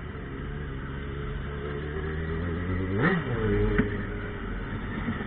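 Yamaha XJ6 motorcycle's inline-four engine running under way with a loud exhaust, its pitch creeping up steadily, with a short rise and fall in pitch about three seconds in before it settles to a steady note.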